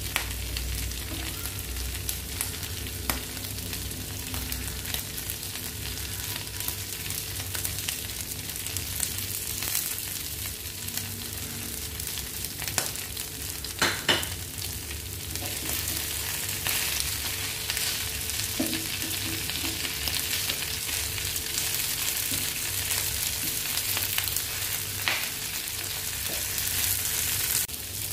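Chopped pork and sliced green chillies frying and sizzling in a pan, with a few knocks from a wooden spatula against the pan as the mix is stirred, the loudest about halfway through.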